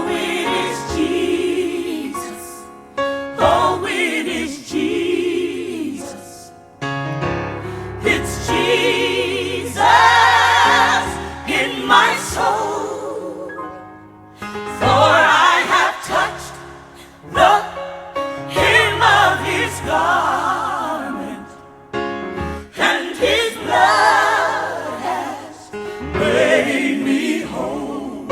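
Gospel singing: long notes held with a wide vibrato, phrase after phrase, with musical accompaniment.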